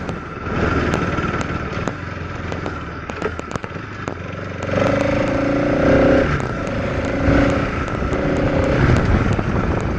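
Motorcycle riding along the road, its engine and road rumble steady. About halfway in, a steady pitched tone sounds three times, the first time for over a second.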